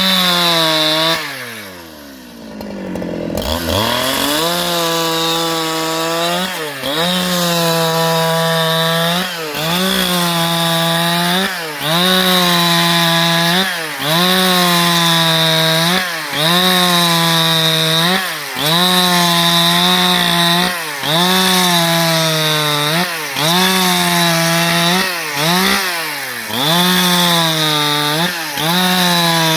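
Husqvarna 395XP two-stroke chainsaw sawing through wood. Its engine drops towards idle early on, then revs back up and stays at high speed, with the pitch dipping briefly about every two seconds.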